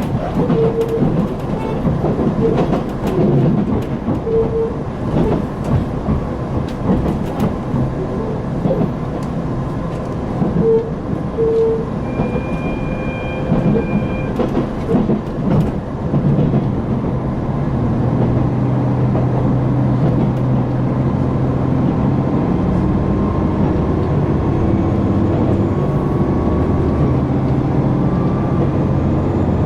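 KiHa 261 series diesel railcar heard from inside the cabin: track rumble with rail-joint clicks at first, then about halfway in the diesel engines come up to power with a steady drone that rises slowly in pitch as the train accelerates.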